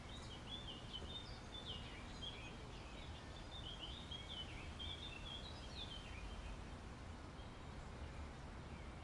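Faint small birds chirping in quick short calls over a low, steady background rumble.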